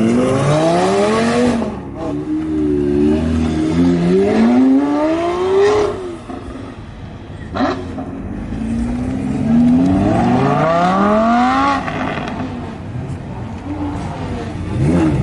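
A high-revving supercar engine accelerating hard, its pitch climbing in three long pulls, each cut off by a drop as it shifts or lifts off. There is a single sharp crack about halfway through.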